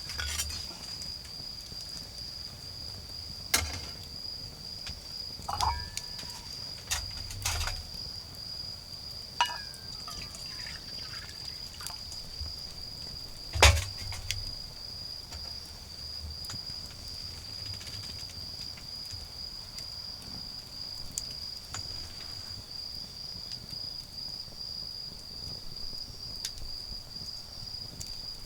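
Autumn insect, likely a cricket, trilling in one steady high note throughout, with a small wood fire giving a few sharp snaps and crackles, the loudest about halfway through.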